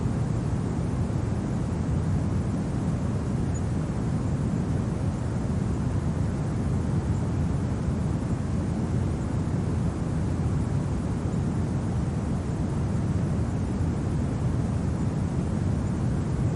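Steady low winter wind, an even dull rush with no gusts or breaks.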